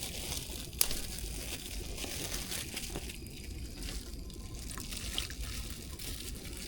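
Water trickling and splashing, with one sharp knock about a second in.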